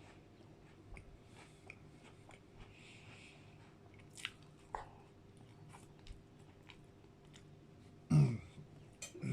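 Close-up chewing of McFlurry ice cream and digestive biscuits, with many small wet mouth clicks and light crunching. A brief low throat sound comes about eight seconds in, and another at the very end.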